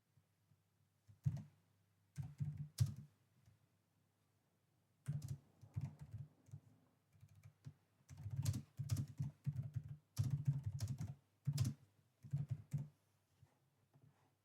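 Typing on a computer keyboard in irregular bursts of key clicks with short pauses between them, over a faint steady low hum.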